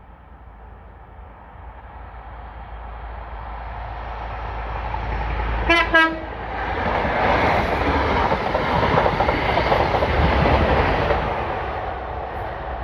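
Network Rail's HST test train, with Class 43 diesel power cars, approaching with a steadily growing rumble. It sounds two short horn blasts about six seconds in, then passes at speed with a loud rush of engine and wheel noise that begins to fade near the end.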